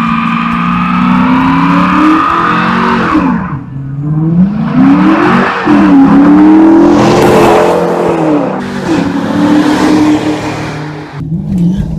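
Dodge Charger R/T's 5.7-litre Hemi V8 exhaust through Flowmaster 40 mufflers with the resonators deleted, accelerating hard. The engine note climbs, drops sharply about three and a half seconds in, as at a gear shift, climbs again and holds, then falls away near the end.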